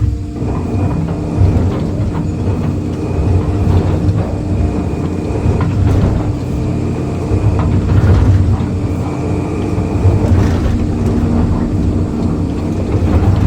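Excavator working under load, its diesel engine running steadily, with scattered cracks and scrapes as the bucket teeth break up concrete.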